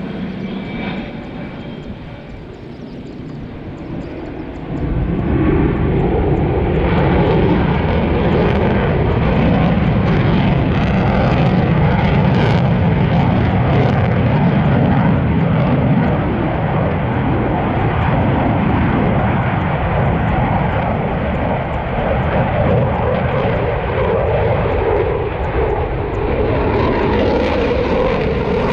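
Aircraft engine noise from a display flight; it jumps sharply louder about five seconds in and stays loud and steady with a slowly wavering pitch.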